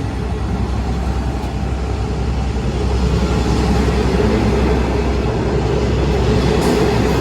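Diesel passenger train running past with a steady low engine rumble and rail noise, growing slightly louder toward the end.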